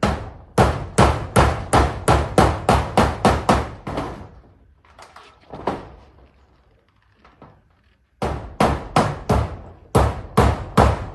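Hammer driving nails into zinc roofing sheets, in quick steady blows about three a second. The hammering stops for a few seconds about halfway through, with only a few faint knocks, then starts again.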